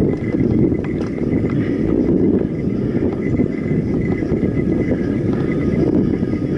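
Steady rumble of wind buffeting the camera microphone and mountain bike tyres rolling over a dirt trail during a ride.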